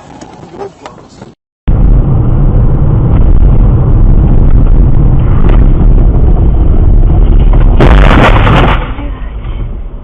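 Vehicle dashcam audio: a very loud, distorted rumble of road and engine noise. About eight seconds in comes a harsher, hissy burst lasting about a second, after which the noise drops.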